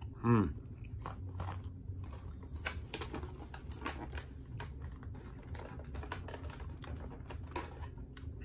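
A person chewing a mouthful of ice cream sandwich close to the microphone: irregular small wet clicks and smacks of the mouth. Right at the start comes a brief falling "mm" hum, the loudest sound.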